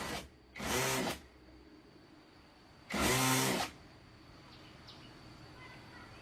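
Handheld electric drill run in three short bursts, the middle one brief and the last the longest.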